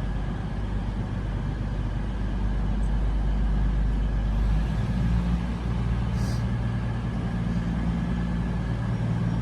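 CrossCountry Class 220/221 Voyager diesel train's underfloor Cummins engines running, a steady low drone. It grows stronger with extra engine tones from about five seconds in.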